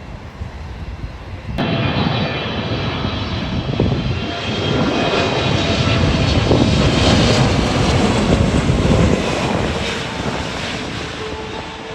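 Jet airliner passing close by, its engines' rush and whine starting abruptly about a second and a half in, building to a peak and then fading away.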